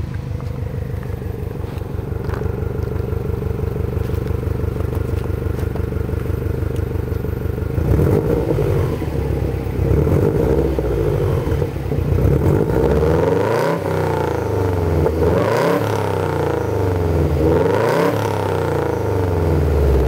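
2005 Subaru Impreza WRX turbocharged flat-four engine, fitted with an open intake and an Apexi muffler, idling steadily for about eight seconds. It is then free-revved about five times to roughly 4000 RPM, each rev rising and falling back.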